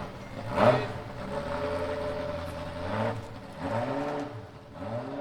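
Ferrari F40 LM's twin-turbo 2.9-litre V8 idling, revved sharply once about a second in, then given three shorter throttle blips that rise and fall in the second half.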